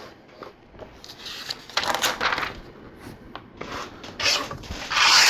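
Loose plastic LEGO pieces being handled and pushed about on a table: scraping and rattling in several short bursts, with a few small clicks, the biggest burst near the end.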